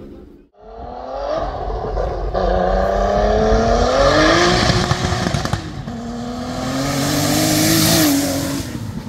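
Turbocharged VR6 engine accelerating hard under load, starting about half a second in. Its pitch climbs in long rises that drop back sharply at gear changes about five and a half and eight seconds in.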